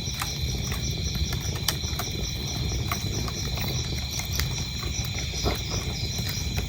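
Wood fire crackling with sharp, irregular pops over a low steady rumble, while crickets chirp steadily in a high, evenly pulsing trill.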